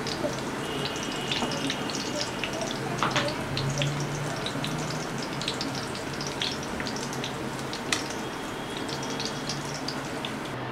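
Chicken sausages frying in hot oil in a pan: a steady sizzle with scattered crackling pops, over a low steady hum.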